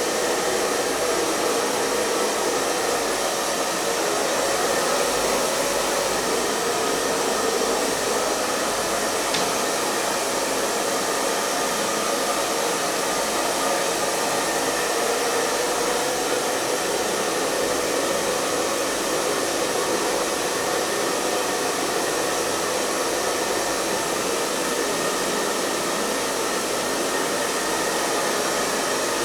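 Hair dryer running steadily at a constant setting, an even airy whoosh of blower noise without change.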